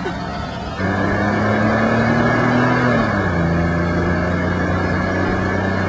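Car engine running steadily, its pitch easing down slightly about three seconds in.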